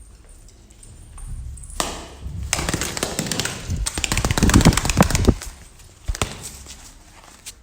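Pigeon wings flapping hard in a rapid clatter for about three and a half seconds, followed by a couple of single knocks.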